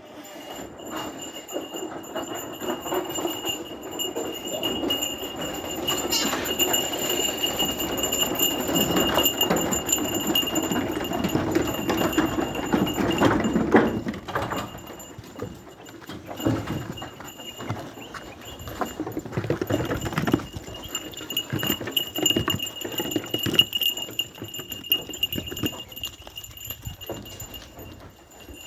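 Goats moving about, with a dense clatter of hooves and knocks that is busiest and loudest through the first half. A steady high-pitched tone runs underneath throughout.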